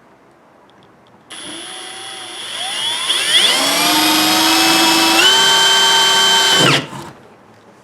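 Drill with a 2 1/8-inch hole saw cutting a hole through a plastic kayak hull. The motor starts about a second in, speeds up to a steady whine, steps up in speed, then stops and winds down near the end.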